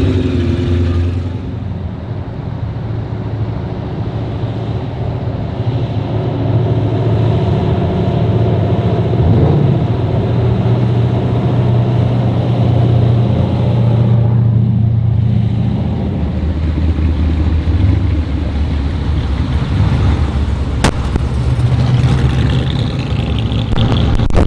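Classic cars and a vintage truck driving slowly past one after another, their engines running low and steady.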